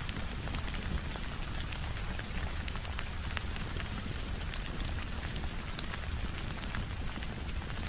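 Steady rain pattering on a window, mixed with the irregular sharp crackles and pops of a wood fire over a low rumble.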